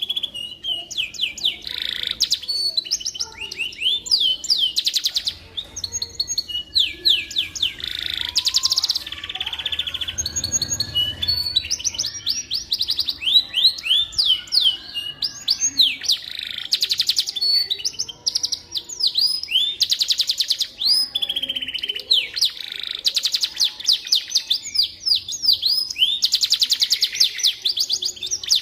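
Domestic canary singing continuously: long fast trills and runs of repeated down-slurred notes, high-pitched and with almost no pauses.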